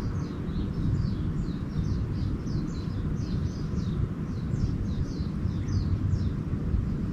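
Small birds twittering in a quick, continuous run of short high chirps, each falling slightly in pitch, over a steady low rumble.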